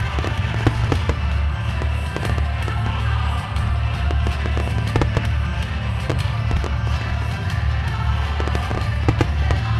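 Aerial fireworks shells bursting in an irregular series of sharp bangs, the loudest about a second in, midway and near the end, over music playing throughout.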